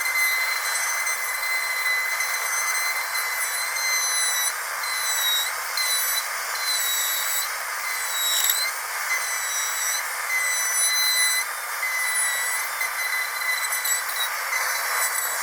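High-speed dental drill running with a steady high-pitched whine over a hiss. The whine dips briefly in pitch a few times, most deeply about eight seconds in.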